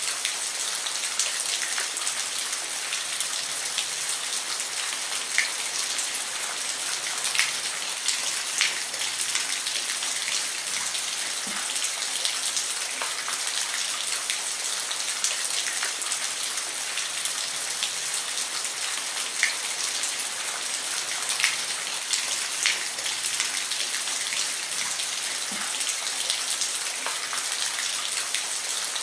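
Steady rain falling on a roof: a dense, even hiss with scattered sharper ticks of individual drops.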